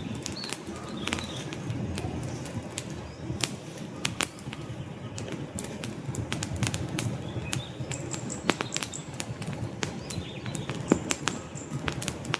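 Wood fire crackling: logs burning with frequent irregular sharp pops and snaps over a low steady rumble of flames, one louder snap near the end.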